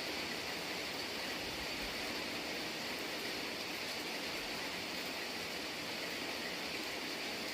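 Steady rain falling, an even hiss with no breaks or rises.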